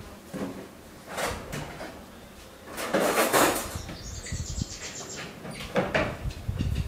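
Kitchen handling sounds of containers and utensils being knocked and moved while a spice marinade is put together. About three seconds in there is a loud noisy burst, followed by a quick run of light clicks lasting about a second.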